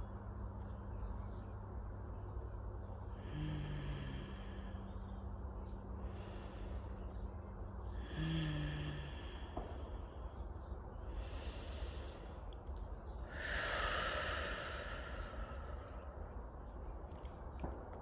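Slow, deep breathing: about four long breaths, the loudest near the end, over repeated high chirps from a bird.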